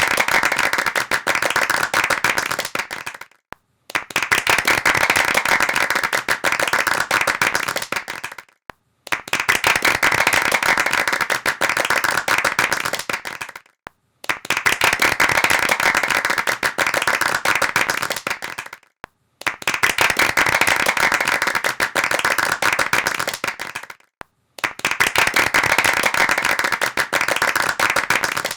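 Hands clapping in a dense, fast patter, in repeated bursts of about four and a half seconds that each fade out at the end, separated by short gaps of silence; about six bursts in all.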